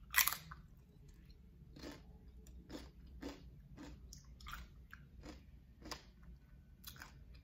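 A bite into a crisp tortilla chip dipped in queso: one loud crunch, then chewing with softer crunches about two a second.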